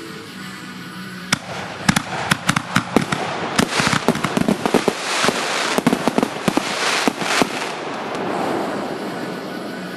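Fireworks going off in a rapid, irregular string of sharp cracks and pops for about six seconds, with a crackling hiss that fades near the end.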